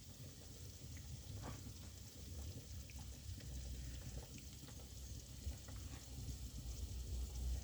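Wood cooking fire crackling and hissing, with scattered sharp pops.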